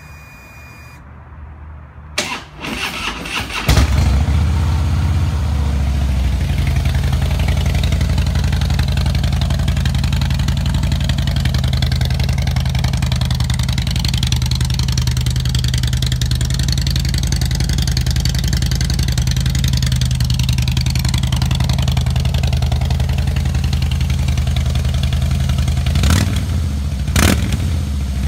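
A 2012 Harley-Davidson Blackline's V-twin engine cranked by its electric starter for about a second and a half, catching about four seconds in, then idling steadily. Two brief sharp knocks near the end.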